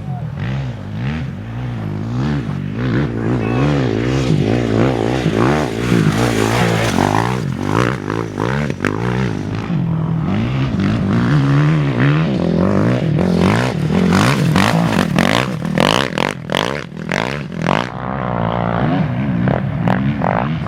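Off-road race motorcycle and quad engines revving hard, the pitch rising and falling over and over as they accelerate and shift, with sharp crackles through the middle and later part.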